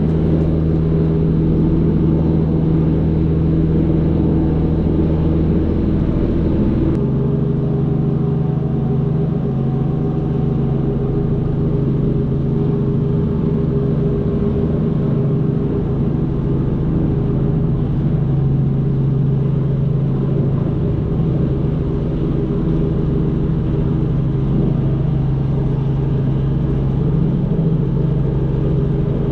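An engine running steadily at constant speed, with a low even hum; its pitch and tone shift abruptly about seven seconds in.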